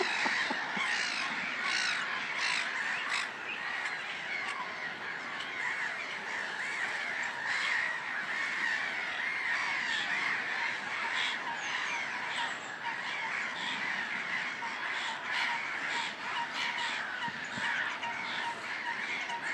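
Many birds calling at once: a steady, dense chatter of overlapping calls with no pause.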